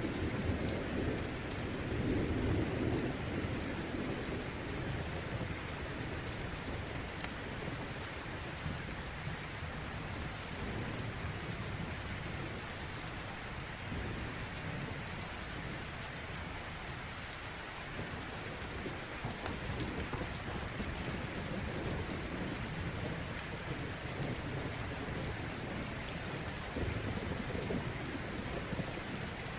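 Steady rain with low rolling thunder, the rumble swelling about two seconds in and again near the end, with scattered faint ticks over the rain.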